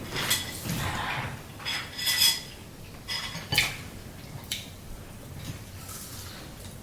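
Cutlery and dishes clinking during a meal, a few sharp clinks with a short ring, the loudest about two and three and a half seconds in.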